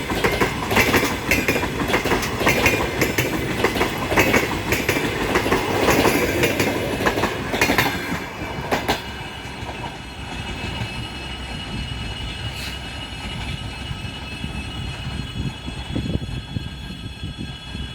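A passenger train rolling past, its wheels clicking over the rail joints in a loud clickety-clack. After about nine seconds it drops suddenly to a quieter rumble with a faint steady high ringing.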